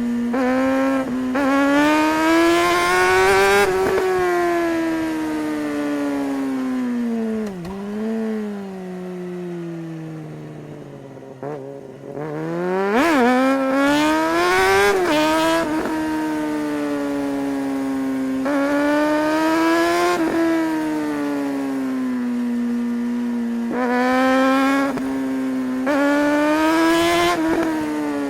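Suzuki GSR600's 599 cc inline-four engine pulling hard through quick-shifted upshifts, with the revs dropping in brief steps at each shift. The throttle then rolls off and the revs sink for several seconds, followed by a sharp throttle blip and another hard pull. After that it holds a steady note, rising in short bursts of throttle near the end.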